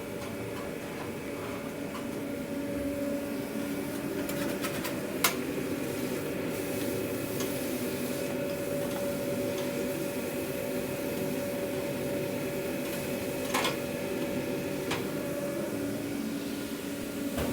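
Steady mechanical hum of food-truck kitchen equipment, with a few sharp clicks and knocks from packing food, the loudest about five seconds in and another near the end.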